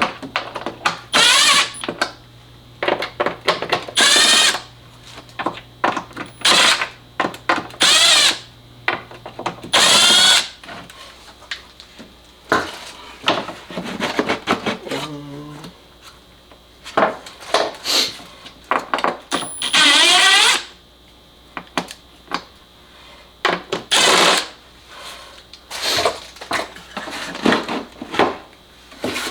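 Cordless electric driver with a T25 Torx bit run in a string of short bursts on small engine-bay bolts, its pitch rising as the motor spins up on each trigger pull. Light clicks of the tool and bit are heard between the bursts.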